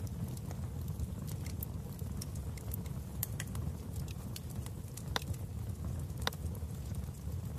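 Wood fire in a fireplace crackling: irregular sharp pops and snaps over a steady low rumble of the flames, with two louder pops about five and six seconds in.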